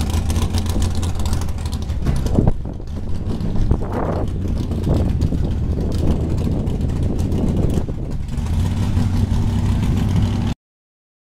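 Car engine idling with a steady low rumble, with a couple of brief swells in the middle; the audio cuts out to silence near the end.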